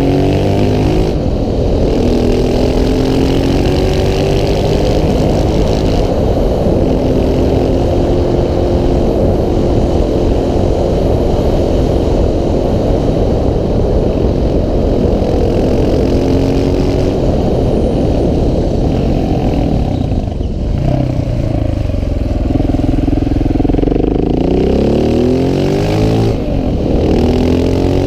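KTM 690 SMC R supermoto's single-cylinder engine pulling hard uphill, the revs climbing and falling again and again with gear changes, over steady wind noise. About twenty seconds in the throttle closes briefly, then the engine revs up through the gears again near the end.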